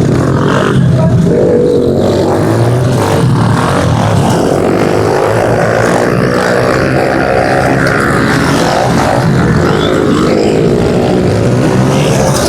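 Several pit bike engines racing on track, their pitches rising and falling as the riders throttle on and off, overlapping into a steady, loud din.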